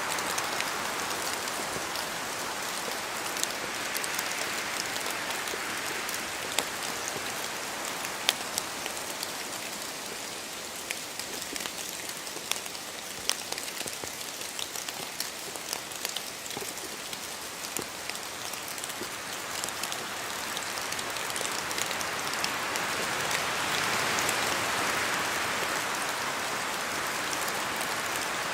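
Steady rain in a forest, with scattered sharp drips of water falling from the trees. Wind swells in slow gusts, once early on and more strongly near the end.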